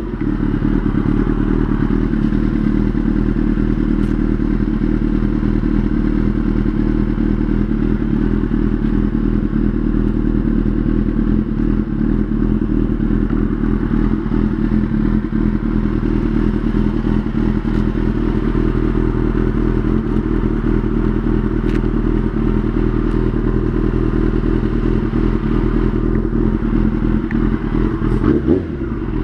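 2003 Yamaha YZF-R6 (RJ05) inline-four engine idling steadily, with a short blip of the throttle near the end.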